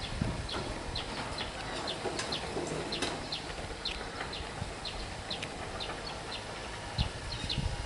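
Small birds chirping: many short, high chirps in quick, irregular succession, over a low background rumble. There is one sharp knock near the end.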